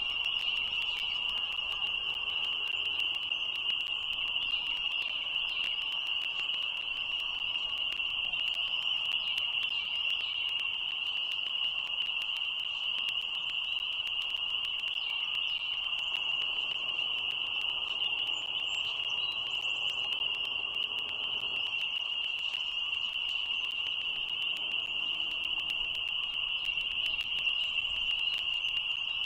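Steady, dense high-pitched frog chorus, unbroken throughout, with faint short bird chirps above it now and then.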